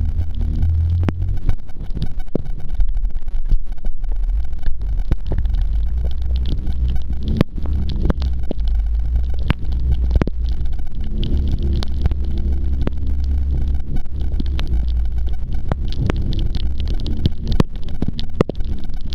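Jet ski engine running under a constant low buffeting rumble, with sharp taps and knocks scattered throughout.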